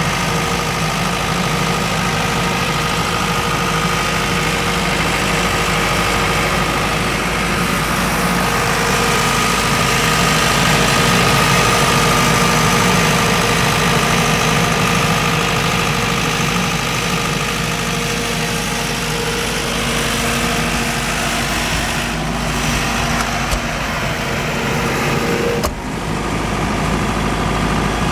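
Silenced 50 kVA diesel generator running steadily with an even engine hum. Near the end there is a brief sharp knock and the sound changes slightly.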